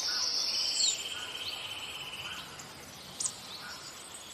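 Small birds calling: a high steady whistled note, then a long evenly pulsed trill that stops about two and a half seconds in, and a few short scattered chirps.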